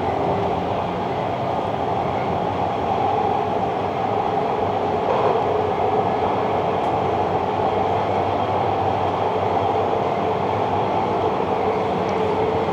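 TTC Line 2 subway train running between stations, heard from inside the car: a steady running noise with a steady hum of several tones.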